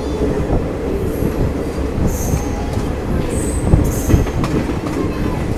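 DEMU (diesel multiple unit) passenger train rolling through a station, heard from an open coach doorway: a steady low rumble of the running gear with several short high-pitched metallic squeals.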